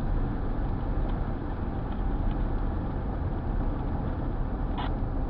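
Steady low rumble of a car driving, with a short crackle near the end.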